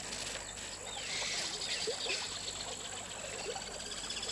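Forest ambience: insects chirring steadily, with a few brief calls and small scattered ticks.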